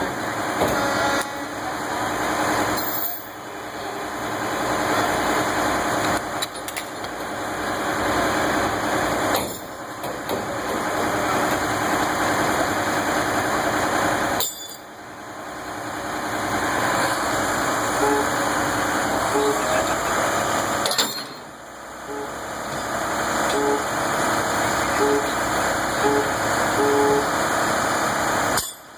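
Steady noise of running truck engines, with a string of short horn toots in the second half.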